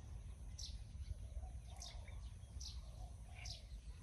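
Birds chirping: short, high, falling chirps repeated about once a second, with fainter lower calls and a steady low background rumble.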